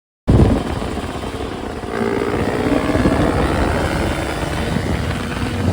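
Dirt bike engine running under way while riding, cutting in abruptly just after the start, with heavy low rumble throughout.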